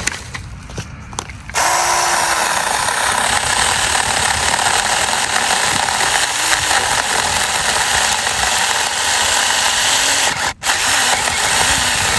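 Saker mini cordless electric chainsaw switching on about a second and a half in and running steadily under load, cutting a branch close to the limit of what the small saw can handle. It cuts out for an instant near the end, then runs on.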